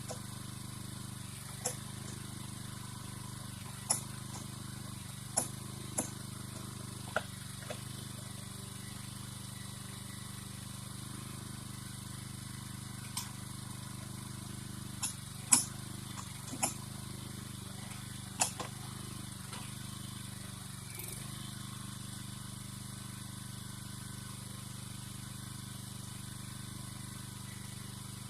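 An engine running steadily at low revs, with a dozen or so sharp clicks and knocks scattered through it. The loudest knock comes about halfway through.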